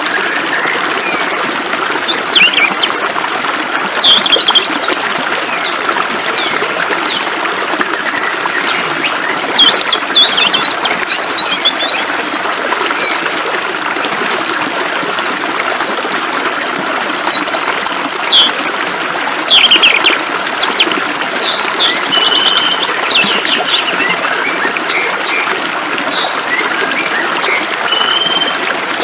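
Steady hiss of flowing water, with several small birds chirping and trilling over it in short phrases throughout.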